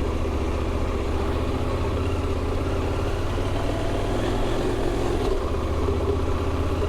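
Motorcycle engine running steadily under light throttle as the bike is ridden slowly through slippery mud.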